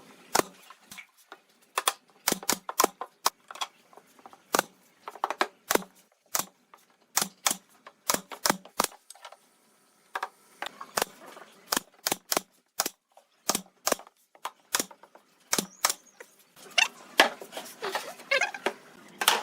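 Irregular sharp knocks and taps of hand work on pallet wood, one or two a second with a short pause partway through. For the last few seconds a steady scraping sound runs under the knocks.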